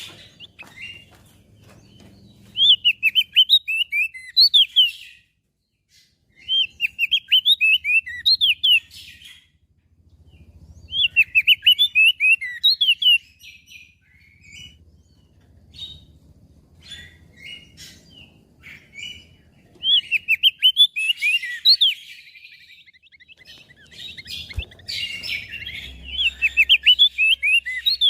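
Opior jambul (crested dark-eye) singing in bouts of rapid, high chirping notes a few seconds long, five bouts with softer scattered chirps between them.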